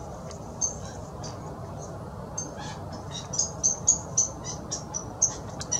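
Small birds chirping: rapid, irregular high-pitched chirps, several a second, growing louder and busier in the middle, over a steady low background noise.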